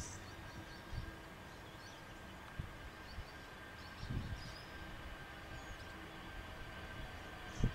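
Outdoor background: faint bird chirps over a steady distant hum, with a few low thumps, near the start, about four seconds in, and near the end.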